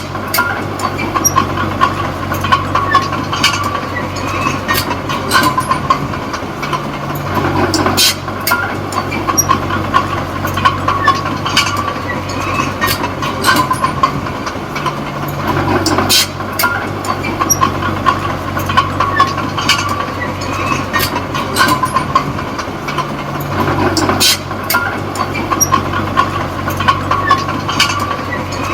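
Komatsu D20P small bulldozer's diesel engine running with clanking from its steel tracks while it pushes soil. The engine note changes about every eight seconds, each time with a loud knock, and the track clatter keeps up throughout.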